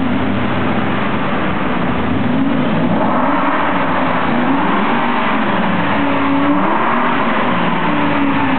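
Aston Martin V8 Vantage's V8 engine being revved, loud, its pitch rising and falling several times as the throttle is blipped.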